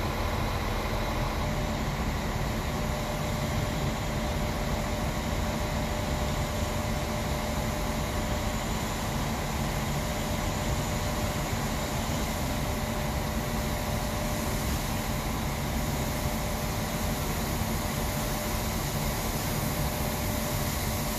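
Steady rumble and hiss of a slow-moving train at a station, with a constant faint whine running through it and no distinct exhaust beats.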